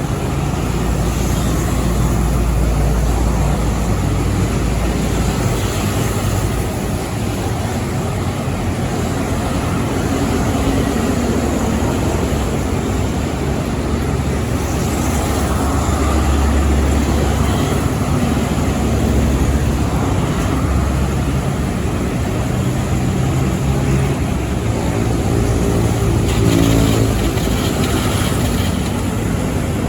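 Heavy trucks passing on a road, their diesel engines running with a steady low rumble; one engine's note rises and grows louder near the end.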